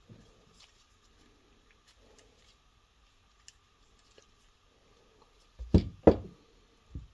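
Workshop handling noise: light clicks of small parts and tools being handled, then two loud knocks about half a second apart near the end and a softer knock just after.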